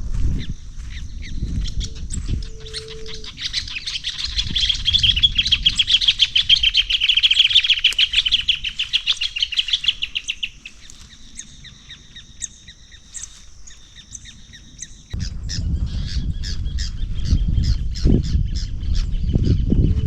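A bird chirping in a fast run of repeated notes, loudest in the middle. There are footsteps near the start and again for the last few seconds.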